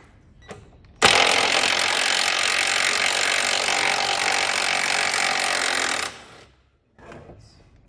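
Impact wrench hammering away at a subframe bolt for about five seconds, starting suddenly about a second in and cutting off near six seconds.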